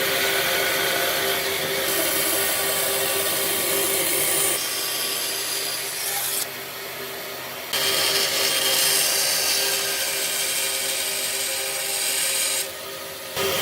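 A power tool working wood: a steady motor tone under the noise of cutting or abrading. It drops away abruptly for about a second halfway through and again near the end.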